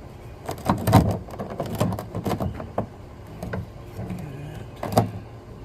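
A run of clattering knocks and clicks, with one sharp knock about five seconds in, from handling the drain plug and drain pan as the oil starts draining.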